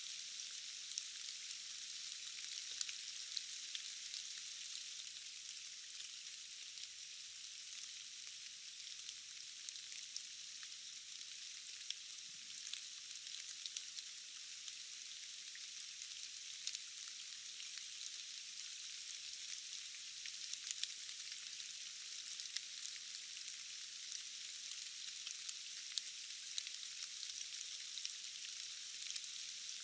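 Steady rain: a continuous thin, high hiss scattered with many small drop ticks, with no let-up or change in strength.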